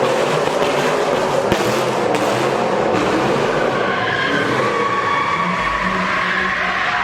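A car drifting: tyres screeching against the pavement over a hard-revving engine, with a wavering squeal that rises in pitch in the second half.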